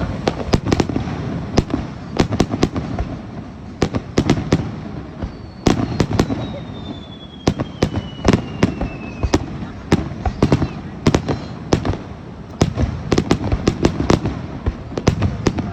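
Aerial fireworks bursting in quick succession, a steady run of sharp cracks and booms over a low rumble. In the middle, a thin whistling tone falls slowly in pitch for about four seconds.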